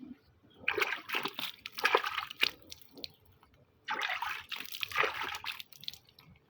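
Water splashing as a spotted dove is bathed, in two bouts of about two seconds each.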